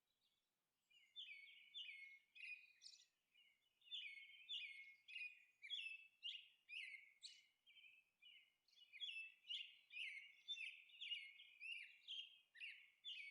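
Faint birds chirping in quick, repeated short notes, starting about a second in and going on steadily.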